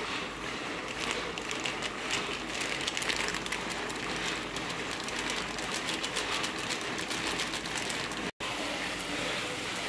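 Capsicum and vegetables frying in a pan on a gas stove: a steady sizzle with fine crackles. The sound cuts out for an instant near the end.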